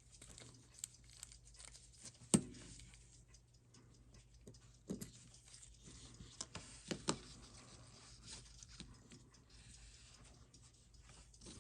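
Light, irregular clicks and taps of small tools and watch case parts being handled at a watch bench, with a sharper click about two seconds in and a few more around five and seven seconds.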